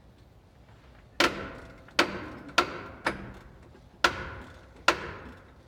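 Six sharp metal-on-metal knocks at uneven intervals, each leaving a short ringing decay, as steel parts of a heavy truck's drum brake assembly are struck while the brake shoes are worked into place.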